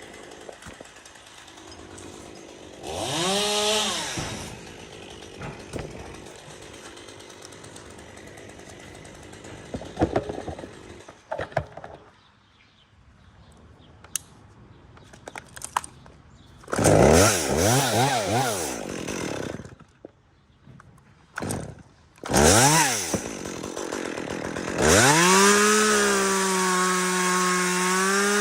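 Chainsaw revved in several short bursts, the pitch climbing and falling each time, idling or dropping low between them. For the last few seconds it runs steadily at full throttle.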